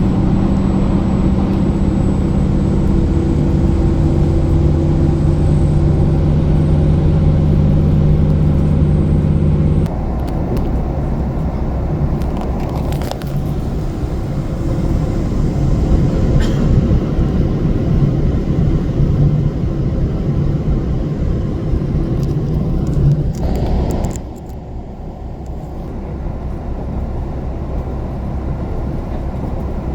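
Diesel express train running at speed, heard from inside the car: a steady engine drone over the rumble of wheels on rail. About ten seconds in the steady hum gives way to a rougher rumble, and about 24 s in the noise drops noticeably.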